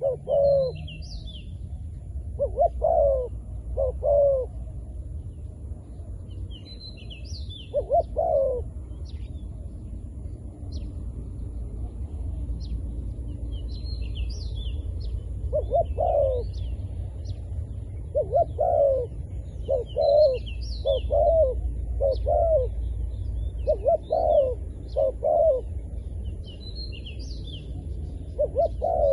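Zebra dove cooing: short arching notes repeated in runs of two to five, the call of a decoy dove luring wild doves. Clusters of high chirps from small birds come between the coos, over a steady low rumble.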